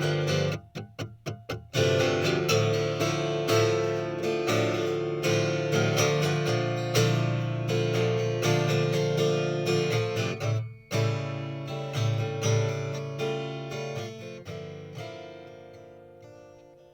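Acoustic guitar strummed with no singing. A few short, choked strums come about a second in, then full chord strumming with a brief stop a little past the middle. It fades as the last chords ring out near the end.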